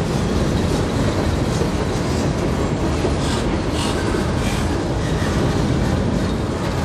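Freight train of tank cars rolling past: a steady rumble of steel wheels on rail, with a few faint clicks near the middle.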